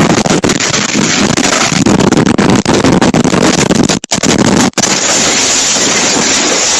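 Loud, crackling storm noise overloading a phone's microphone, with two short dropouts about four seconds in.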